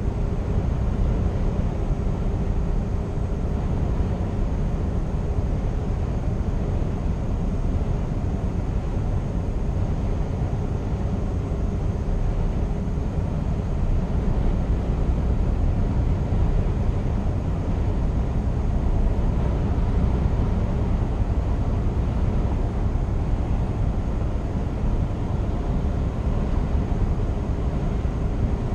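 Scania R490 truck's 13-litre six-cylinder diesel running while driving, with road and tyre noise: a steady low rumble. A faint steady whine in the first half fades out about halfway through.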